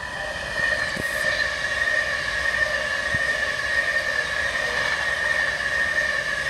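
Virgin Pendolino Class 390 electric train running past close by, a steady rumble of wheels on rail with a constant high whine over it.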